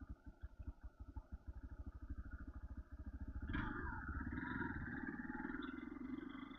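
A vehicle engine running with an even, low throb that quickens steadily, growing louder from about three and a half seconds in.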